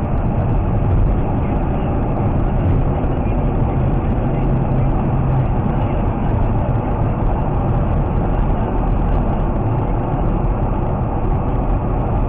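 Steady rumble of a road vehicle driving, engine and road noise on a dashcam's microphone. It starts abruptly, with no crash or impact.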